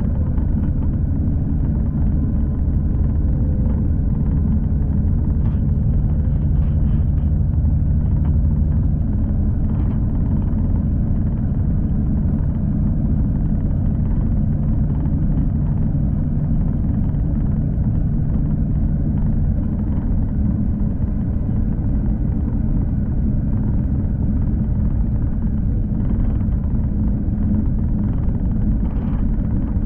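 V/Line passenger train running along the track: a steady low rumble with a low hum that fades about a third of the way in, and a few faint clicks now and then.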